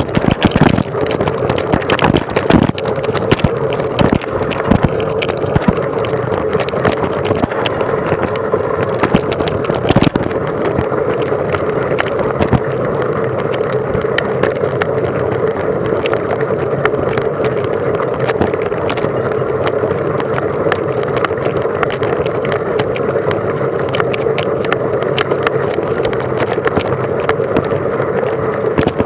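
Mountain bike ridden over a rough trail: wind rushing over the microphone and a steady run of rattling knocks from the bike, thickest in the first several seconds.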